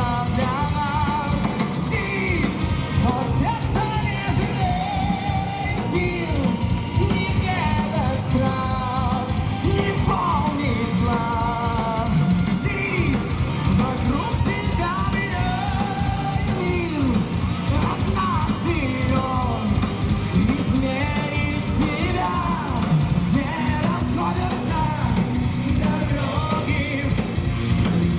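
Live heavy metal band playing: distorted electric guitars, bass and drums at a steady driving beat, with a melodic lead line gliding over them.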